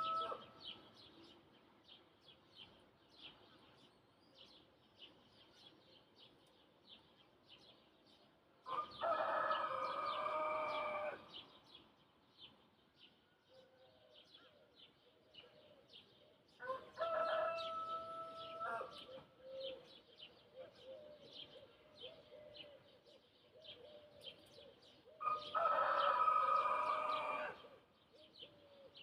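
A rooster crowing three times, each crow about two seconds long and roughly eight seconds apart, while small birds keep up steady quick chirping.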